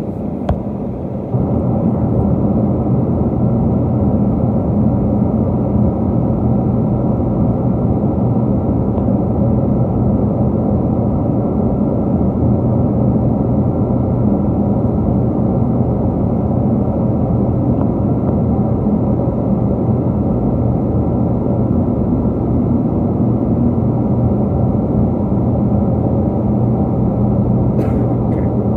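Steady cabin noise inside a Boeing 777-200 in flight: an even low roar of engines and airflow with a faint underlying hum, stepping up a little in level just over a second in.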